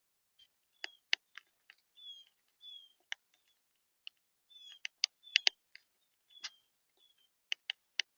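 Small birds at a feeder: short high chirps, some sliding down in pitch, mixed with irregular sharp clicks and taps of beaks on the feeder, loudest in a quick cluster about five seconds in.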